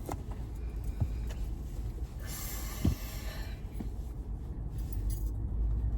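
Steady low rumble inside a car's cabin, with a brief hiss a little over two seconds in and a single soft thump just before the three-second mark.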